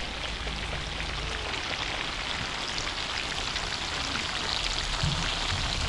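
A steady, dense hiss of fine crackles that starts and stops abruptly.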